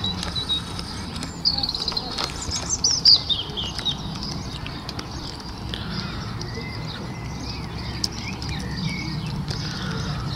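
Small songbirds chirping and trilling. The song is loudest in a quick falling run of notes about two seconds in, with scattered chirps later, over a steady low hum.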